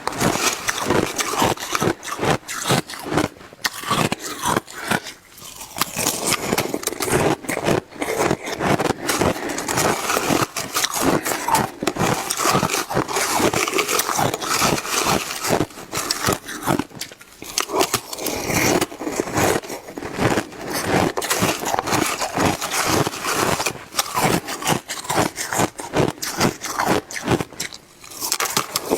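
Close-miked biting and chewing of shaved ice: a dense, continuous run of crunching and crackling, with short lulls about five, seventeen and twenty-eight seconds in.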